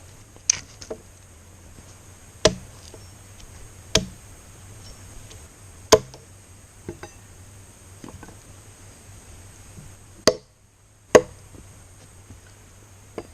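Chopping knocks of a tool striking wood: about six sharp, single strikes spaced unevenly one to two seconds apart.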